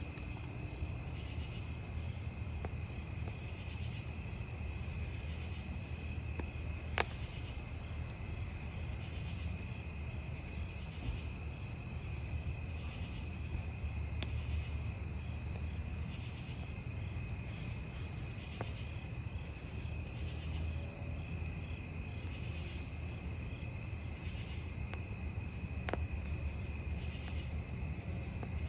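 Crickets chirping steadily over a wood campfire that crackles, with a sharp pop about seven seconds in and another near the end.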